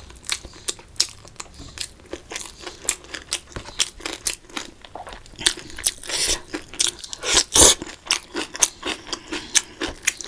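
Close-miked eating sounds: chewing and crunching with many sharp irregular clicks, several a second, growing louder about six to eight seconds in.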